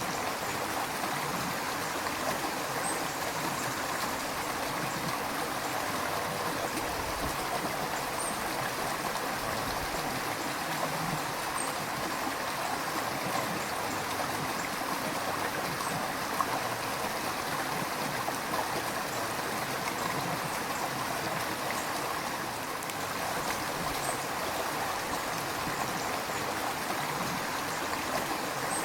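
A river flowing, a steady rush of water with gurgling and splashing throughout.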